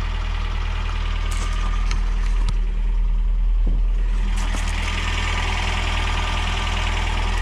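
Carbureted truck engine idling steadily, freshly started and still cold.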